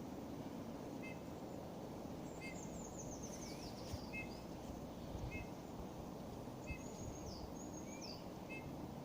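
Small songbirds calling: a short soft two-tone note repeating about once a second, a high descending trill about two and a half seconds in, and two high falling whistles near the end, over steady low background noise.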